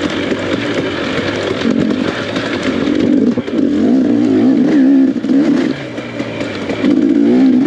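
Dirt bike engine revving, its pitch rising and falling repeatedly, loudest about three seconds in and again near the end.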